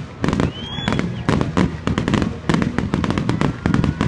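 Fireworks display barrage: a rapid run of overlapping bangs and crackles, several a second, from many shells bursting at once.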